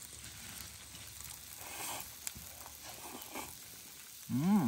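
Food sizzling faintly in a pan, with a few small clicks, and a short rising-then-falling hum of a voice near the end.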